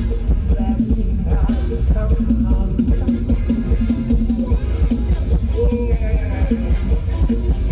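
Mor lam band music: a drum kit keeping a steady beat under a melody line.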